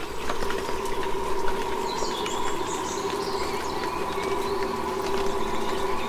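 Small birds chirping, a few short calls, over a steady humming tone that sets in at the start.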